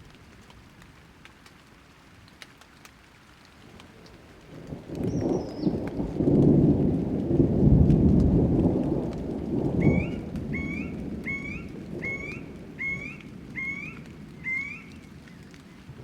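A roll of thunder swells up and rumbles for several seconds before fading, over light rain with scattered drip ticks. Near the end a bird repeats a short rising note seven times, evenly spaced.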